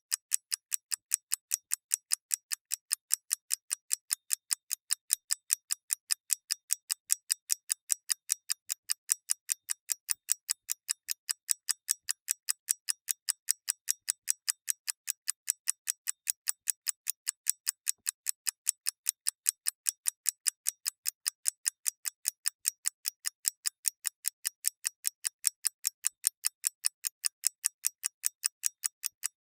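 Mechanical clock ticking steadily, several crisp, thin ticks a second, evenly spaced with a slight alternating tick-tock.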